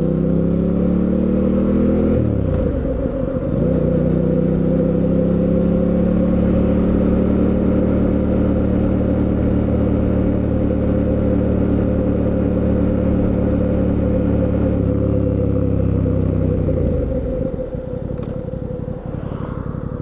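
Fantic Caballero 700 Scrambler's 689 cc parallel-twin engine pulling hard, shifting up about two seconds in, then accelerating again and holding a steady cruising note. Near the end the throttle is rolled off and the engine note falls as the bike slows.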